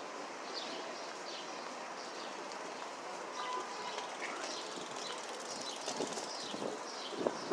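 Small birds chirping: many short, high, falling chirps repeating over a steady hum of outdoor background noise.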